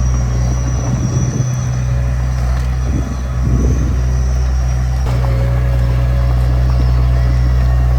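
Diesel engine of earth-moving machinery running steadily with a deep drone, with some irregular low rumbling about a second in and again around three seconds in.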